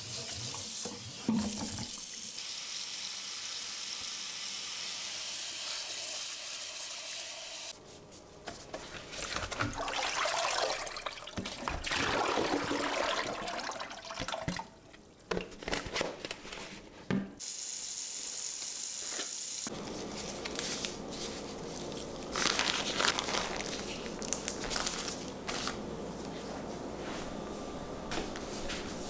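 Water running from a tap into a sink, with irregular splashing and handling noises through the middle stretch.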